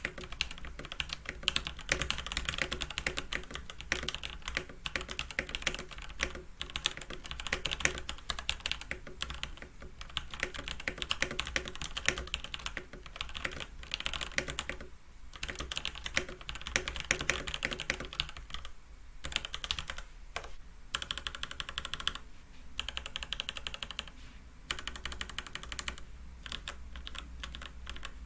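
Keychron C1 mechanical keyboard with factory-lubed Gateron G Pro Red linear switches and ABS doubleshot keycaps in a plastic case, typed on in steady runs with a couple of short pauses. It is picked up by a webcam microphone, with the keyboard resting on a desk mat.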